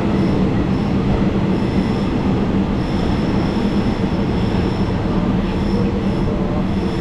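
Passenger train running on the rails, heard from aboard, with a steady rumble. A high squeal from the wheels comes and goes, stronger from about three seconds in, as the train runs into the station.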